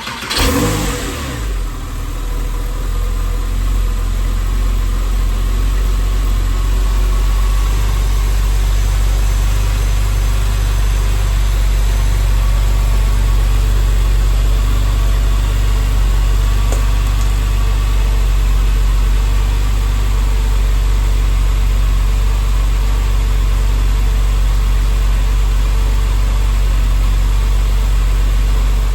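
2004 Porsche 911 Carrera 4S's flat-six engine on a cold start: it catches, flares briefly in revs and drops back, then runs at a steady cold idle.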